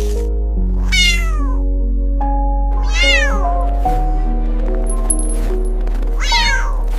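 A cat meows three times, about two seconds apart; the first and last calls slide down in pitch. Background music with sustained held notes plays throughout.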